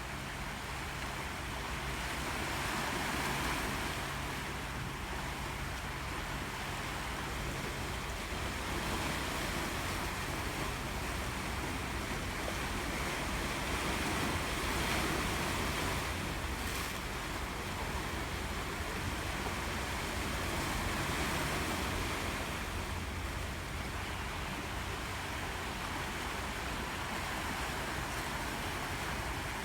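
Sea waves breaking and washing on the shore, the surf swelling and easing every several seconds.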